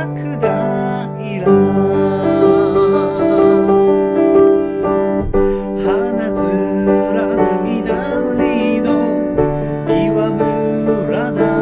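Music: piano playing sustained chords over a moving bass line, with a singing voice that wavers in pitch on held notes.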